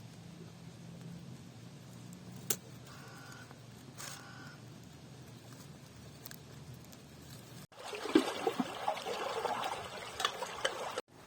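Liquid splashing for about three seconds, starting abruptly about two-thirds of the way in, after a quieter stretch with a low steady hum.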